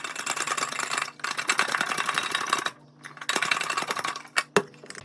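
Rapid scraping and clicking of kitchen utensils against a pan as cooked chicken is shredded, in two spells with a short pause about halfway through and a few single clicks near the end.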